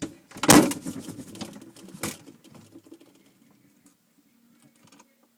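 Refrigerator door being shut with the recording camera inside: a loud knock about half a second in and another about two seconds in, then fading rustles and small crackles. A faint steady low hum is left near the end, typical of the fridge running.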